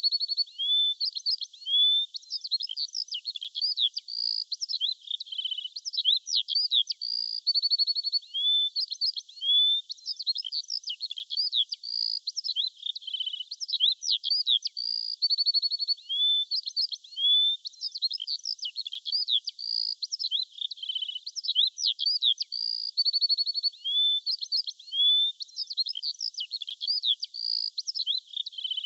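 Several songbirds singing and chirping together without a break: quick trills, short whistled notes and rising chirps overlapping one another.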